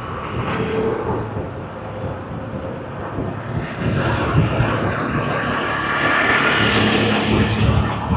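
Road traffic and vehicle engines running, louder from about four seconds in.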